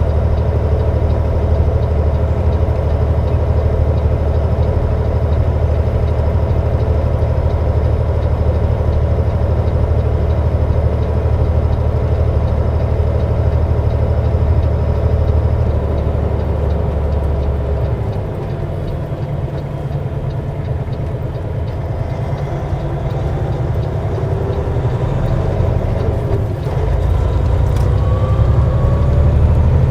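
Semi truck's diesel engine running, heard from inside the cab as a steady low drone. About eighteen seconds in the drone changes pitch and drops a little in level.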